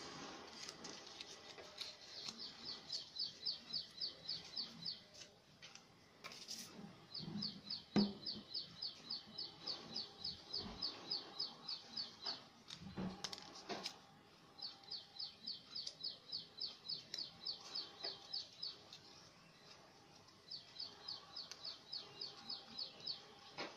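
A small bird chirping in fast runs of high, quick chirps, about five a second, four runs of a few seconds each with short pauses between. Faint taps and rustles of paper being handled.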